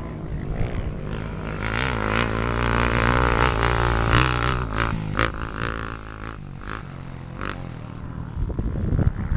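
Off-road racing engine revving, its pitch climbing and wavering under load for a few seconds and then easing off, with several sharp knocks near the middle.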